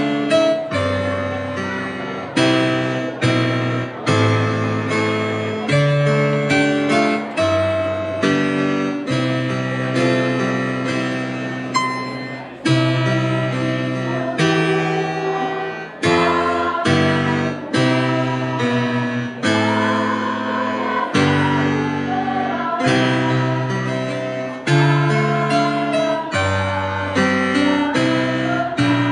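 Music: strummed guitar chords in a steady rhythm, the chord changing every second or so.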